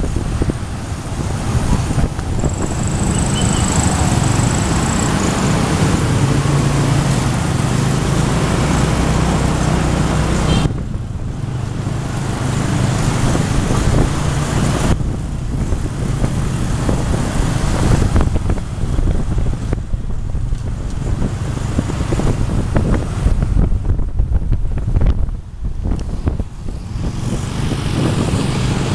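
Motorbike engine running while riding through traffic, with heavy wind noise on the microphone; the engine note shifts as the bike speeds up and slows, and the noise eases off about ten seconds in and again near the end.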